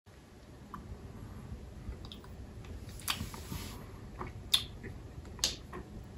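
Chewing and crunching a Marabou Non Stop, a sugar-shelled chocolate sweet, with three sharp crunches about three, four and a half, and five and a half seconds in, and smaller ticks between them.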